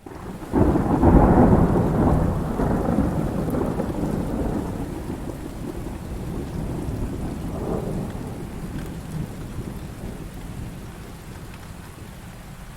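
A thunderclap breaks about half a second in and rolls on as a long rumble that slowly fades, with a smaller swell of rumbling later, over steady heavy rain.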